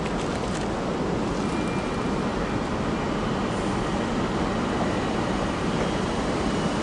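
SU160 diesel locomotive hauling a passenger train into the station: a steady rumble of engine and wheels on the rails.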